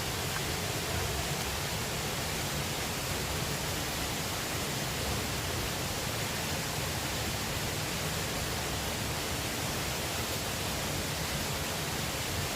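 Steady, even rush of river water.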